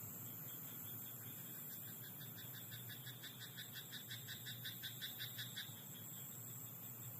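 A frog calling: a run of rapid, evenly spaced croaks, about five a second, growing louder over several seconds and then stopping. A fainter, steady trill and a constant hiss sit underneath.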